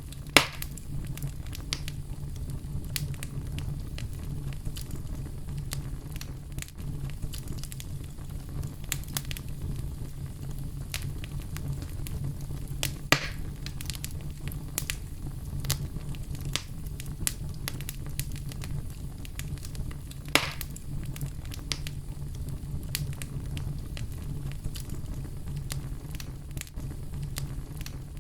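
Oak wood fire burning in a fireplace: a steady low rumble of flames with frequent small crackles, and three louder pops, one right at the start, one about halfway through and one about three-quarters of the way through.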